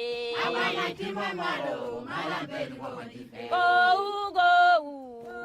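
Chanted singing: voices holding long sustained notes, loudest in the second half.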